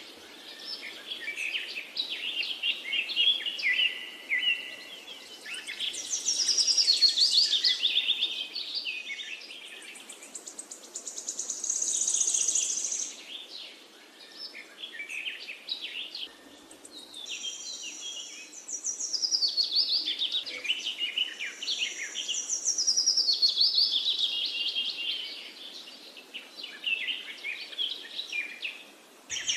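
Small birds chirping and twittering, with overlapping runs of fast, high chirps that swell and fade every few seconds.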